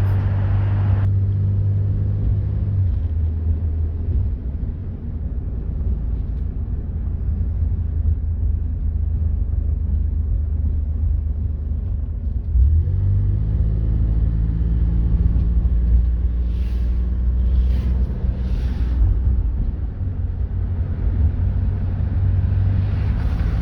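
1972 Citroën SM's Maserati V6 engine running steadily; about thirteen seconds in its note shifts and gets louder.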